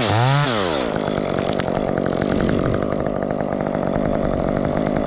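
Chainsaw revved up and back down, then running steadily at high throttle, as it does while cutting through wood.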